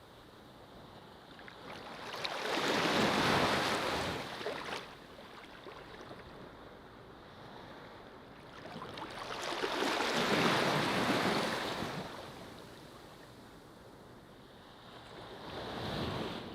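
Ocean waves breaking and washing up the shore in slow surges, one about every six to seven seconds, with a softer hiss of water between them.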